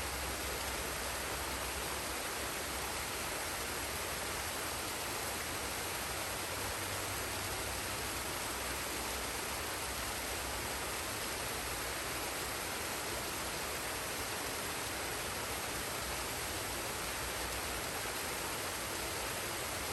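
Waterfall and stream water rushing in a steady, even hiss with no change.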